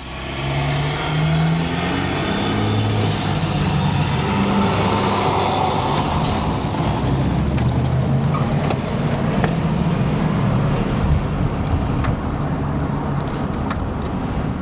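Motor vehicle engine and road noise while driving, the engine's pitch shifting up and down over the first few seconds, then a steady drone.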